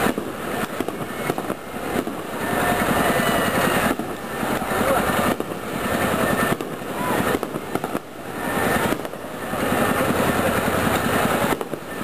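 Fireworks going off in a rapid, continuous crackle of many small bangs. The intensity swells and eases every second or two.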